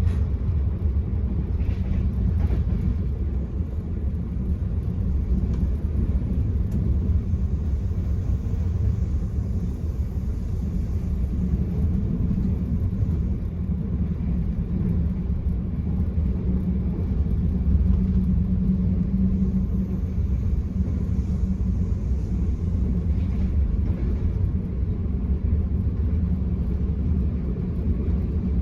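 Steady low rumble of a moving Enterprise passenger train heard from inside a carriage: wheels running on the rails, with a faint hum underneath and an occasional light knock.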